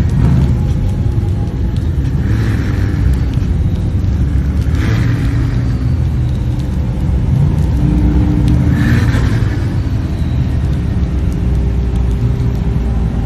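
Car engine running with a loud, steady low rumble, with three brief swells of higher-pitched noise over it.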